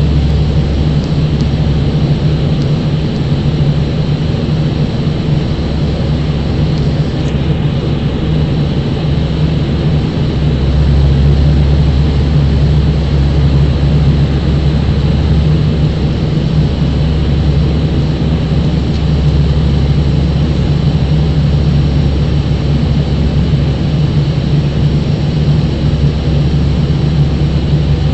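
Steady, loud drone of an airliner's engines and airflow heard inside the passenger cabin in flight, mostly low rumble, swelling slightly about ten seconds in.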